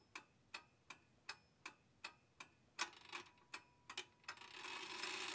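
Steady, evenly spaced ticking, a little under three ticks a second. From about four seconds in the ticks give way to a hiss that swells steadily louder.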